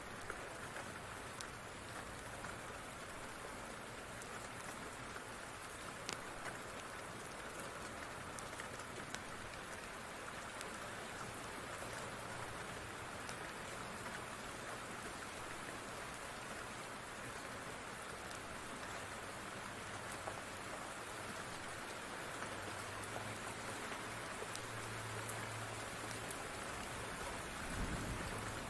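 Steady rain falling, a continuous hiss with scattered sharp ticks. A brief low rumble comes near the end.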